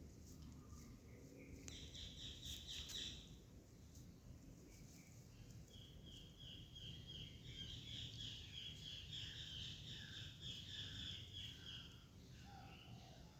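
Faint, rapid chirping trills of a small bird in the background: a short burst about two seconds in, then a longer run from about six seconds to near the end, over a low steady rumble.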